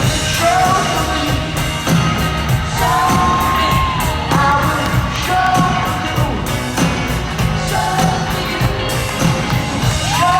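Live rock band playing with a lead vocal singing over it.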